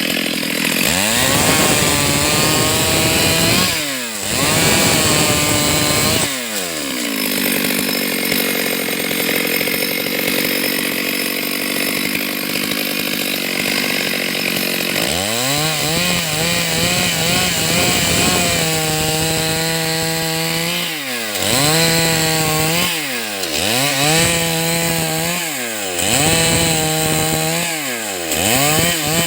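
Stihl MS 382 two-stroke chainsaw cutting lengthwise through a log to make boards. It runs at high revs in the cut, and its pitch drops and climbs again several times as the throttle is eased and opened.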